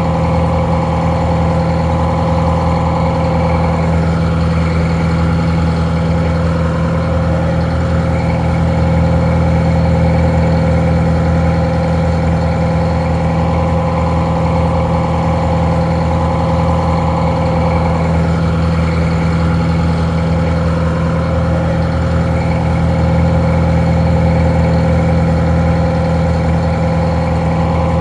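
Detroit Diesel 4-71 inline four-cylinder two-stroke diesel idling steadily, a little muffled.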